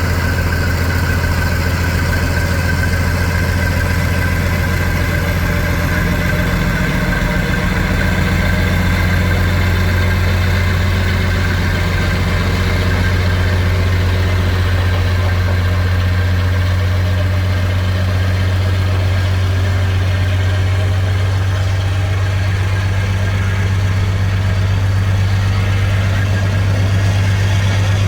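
Diesel locomotive engine idling loudly and steadily, a deep even hum that holds throughout.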